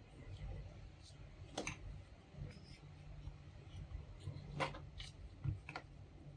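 Small plastic parts of a laminator's drive motor and gear being handled and fitted back together: light rubbing with a few sharp clicks. A low steady hum runs underneath.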